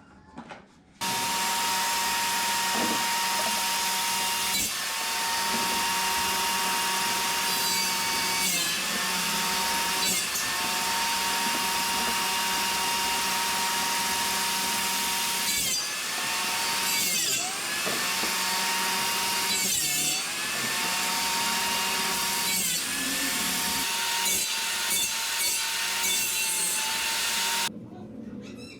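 Electric power saw running and cutting wood, starting about a second in and stopping shortly before the end. Its steady motor whine dips briefly in pitch several times as the blade takes the load of a cut.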